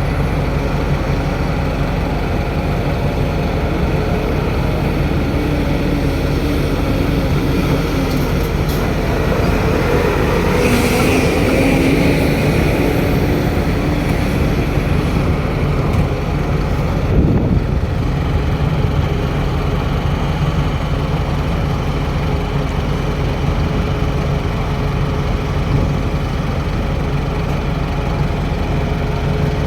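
Tata Hitachi Zaxis 650H excavator's diesel engine running steadily at working speed. The engine note shifts and rises for a few seconds about a third of the way in. A single short knock comes a little past the middle.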